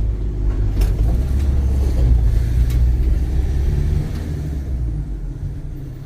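Van engine and road rumble heard inside the cab while driving, a steady low drone that eases a little about four seconds in.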